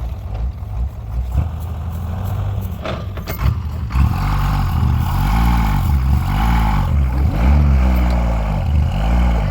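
Tractor's diesel engine running under load, then, from about four seconds in, revving up and down over and over, roughly once a second, as it strains to pull out of deep mud. A few knocks are heard just before the revving starts.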